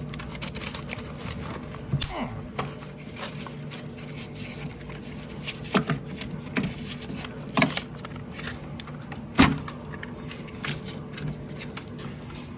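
A few sharp clicks and knocks, the loudest near the end, over a steady low electrical hum. They are plausibly the sounds of handling parts during the refrigerator relay repair.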